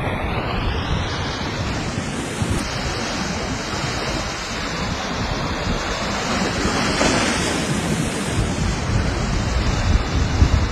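Rough sea waves surging and breaking on the shore in a steady wash, with wind buffeting the microphone.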